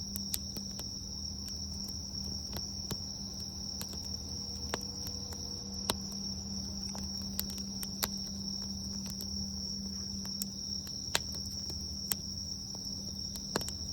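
Wood campfire crackling, with scattered sharp pops at irregular intervals, over a steady high-pitched insect trill.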